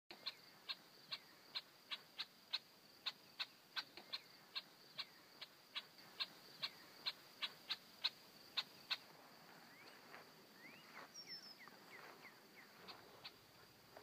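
A bird giving a sharp call note over and over, about two a second, which stops after about nine seconds; several short sweeping chirps follow near the end. A faint steady high tone runs underneath.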